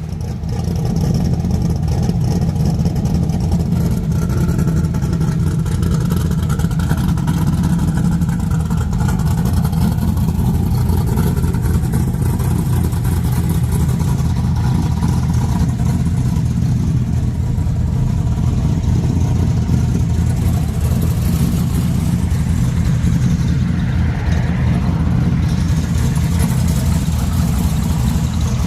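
Third-generation Chevrolet Camaro engine running loud and steady, with no revving; the builders suspect a head gasket issue and remark that it makes a lot of noise.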